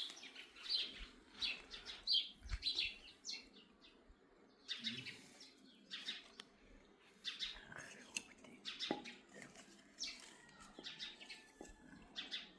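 Birds chirping: many short, high chirps repeating throughout, in irregular clusters.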